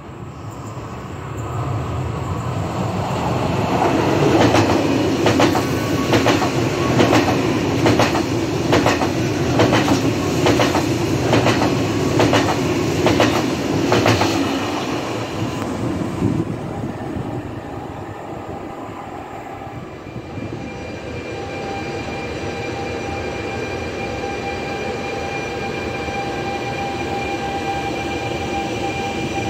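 Italo high-speed train passing along the platform: a rising rush of wheels on rail with an even clack about every 0.7 s as the wheelsets go over the rail, fading away after about a quarter of a minute. Later comes a steady hum with faint high steady tones from a regional train at the far platform.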